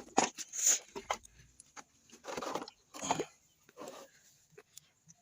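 Irregular clinks and knocks of metal tools and transmission parts being handled during disassembly.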